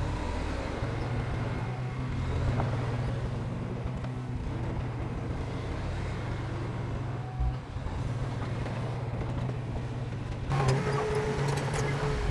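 Heavy earthmoving machinery's diesel engine running steadily. Near the end the sound changes abruptly, getting louder, with sharp clicks over the engine.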